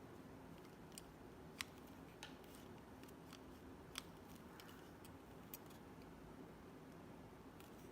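Near silence: room tone broken by a few faint, sharp clicks scattered through it, the clearest about a second and a half in and again about four seconds in.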